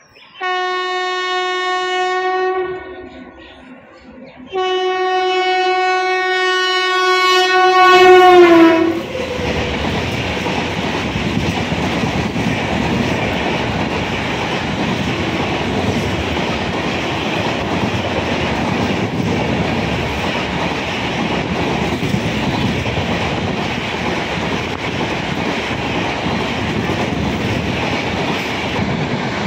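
Express train passing at high speed: the locomotive's horn sounds twice, a short blast and then a longer one whose pitch drops as the engine goes by. After that comes the loud, steady noise of the coaches rushing past on the track.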